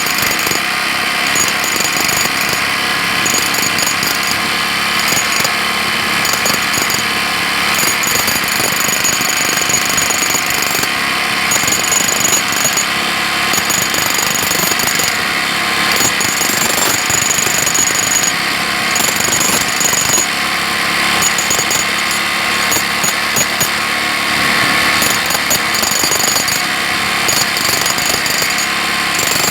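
Jackhammer hammering continuously: a loud, dense, rapid rattle, with a higher ringing edge that breaks off and comes back every second or two.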